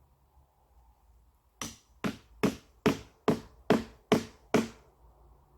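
Eight sharp, evenly spaced strikes, a little over two a second, each ringing briefly, starting about one and a half seconds in.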